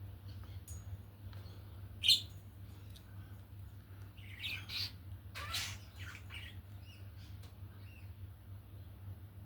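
Birds chirping and squawking in short, separate calls: a sharp loud call about two seconds in, then a cluster of calls a couple of seconds later, one sweeping downward. A steady low hum runs underneath.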